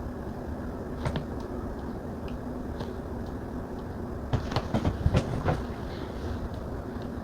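Stylus tapping on a tablet screen: one tap about a second in, then a quick run of louder taps between about four and five and a half seconds, over a steady low background hum.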